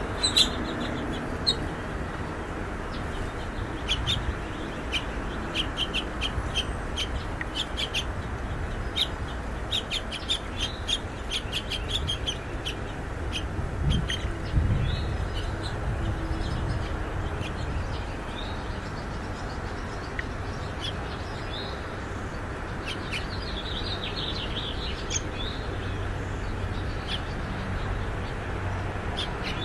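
Purple finch nestlings chirping in quick runs of short, high cheeps, the begging calls of young birds being fed, over a steady low outdoor hiss.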